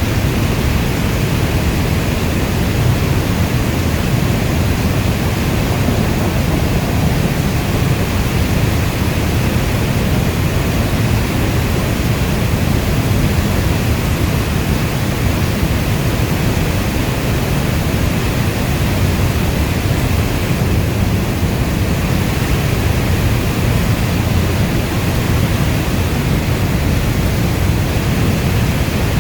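Steady heavy rain: a dense, even rushing noise with most of its weight in a deep low rumble, without any thunderclaps or single drops standing out.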